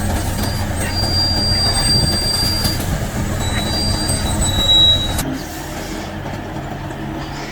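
Heavy vehicle running with a low rumble, overlaid by high, thin metallic squeals for the first five seconds. The sound then changes abruptly to a quieter, steady rumble.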